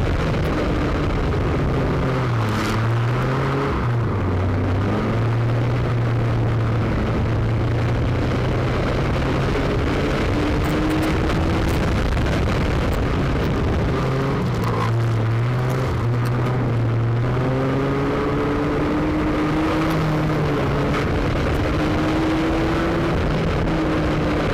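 A banger-racing car's engine, heard from inside the cabin as the car is driven hard. The revs climb and drop repeatedly through the gears, over constant road and body noise.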